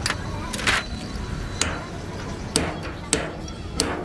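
Hammer blows on metal: about seven sharp strikes at an irregular pace, some leaving a short metallic ring.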